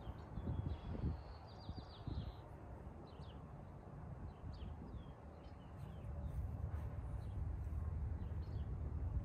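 Small birds chirping and trilling on and off over a steady low outdoor rumble, with a few dull thumps in the first couple of seconds.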